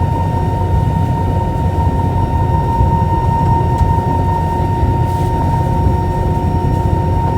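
Steady jet engine and cabin noise inside an Airbus A320-212 with CFM56 engines: a deep, even rumble with a steady high tone running through it.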